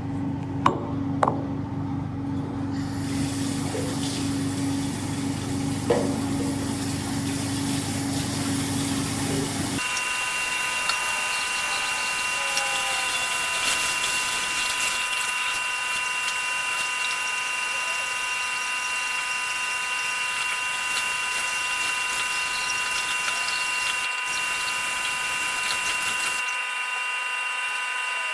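Steady machine running: a low motor hum with a few clicks, changing about ten seconds in to a steady hiss with several high steady tones.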